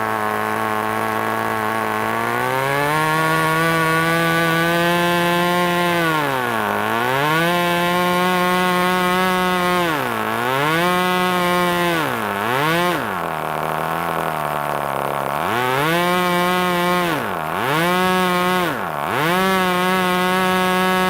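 G-Mark .12 twin-cylinder model glow engine running and turning an APC 7x6 propeller. It picks up speed about two seconds in, then is throttled down and back up again and again, with a spell at low idle around the middle.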